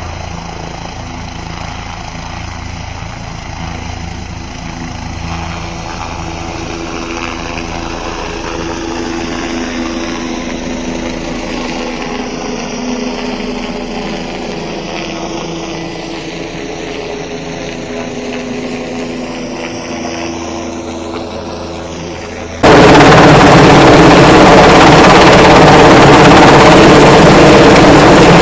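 Helicopter flying nearby: a steady rotor and turbine drone whose pitch slides slowly as it moves. About 23 seconds in it abruptly becomes much louder and rougher.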